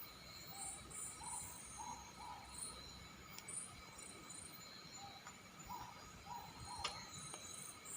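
Night insects chirping faintly: short, evenly spaced cricket-like chirps, about two a second, in two runs. A single sharp click comes near the end.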